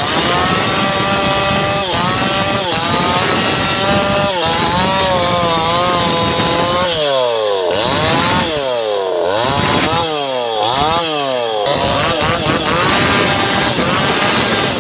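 Homemade chainsaw engine cutting teak wood, its pitch sagging and recovering under load. About halfway through it is revved up and down several times in quick succession, then it runs steadily at speed again.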